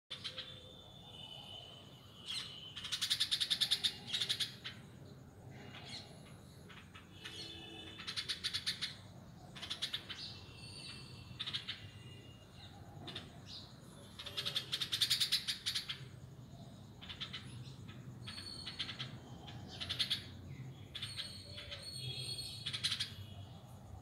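Songbirds chirping and singing: several bursts of rapid, high twittering trills a few seconds apart, with shorter chirps between them.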